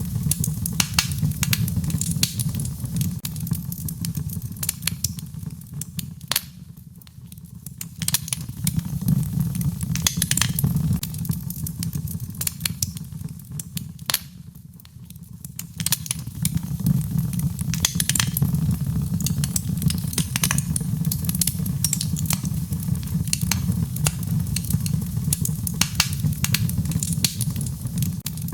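Wood fire in a fireplace crackling, with irregular sharp pops and snaps over a low, steady rumble of flames. The rumble eases briefly twice, while the crackling carries on.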